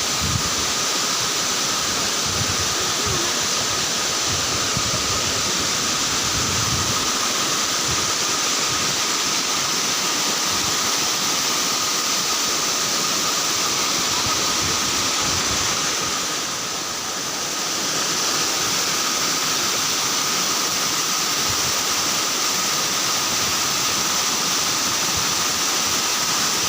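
Waterfall rushing in a steady roar of falling water, dipping briefly a little past the middle.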